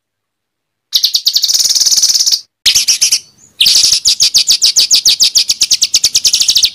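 Songbird giving harsh, rapid-fire phrases of the kind called 'tembakan kasar' in Indonesian bird-song tutoring recordings: three bursts of fast, evenly repeated high notes, about ten a second, broken by abrupt silent gaps. The last and longest burst starts about three and a half seconds in.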